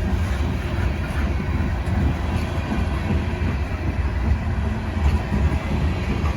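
Freight train rolling past, its cars' wheels rumbling and clattering steadily over the rails.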